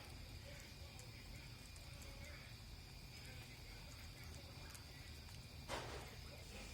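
Faint steady night chorus of frogs and insects, with small crackles from a wood bonfire and one louder crack from the fire near the end.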